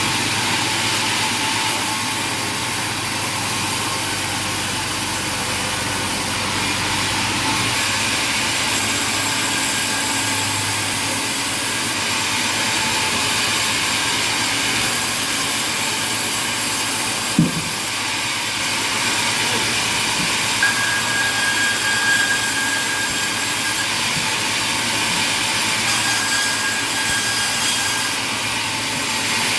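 Sawmill machinery running steadily, with a single sharp knock about halfway through and a faint high whine in the second half.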